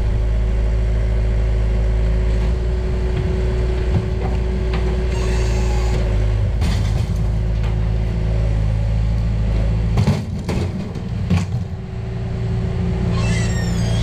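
Loaded van driving on the road, its engine and road noise a steady low rumble heard from inside the cabin. About ten seconds in the rumble eases briefly with a few knocks, then picks up again.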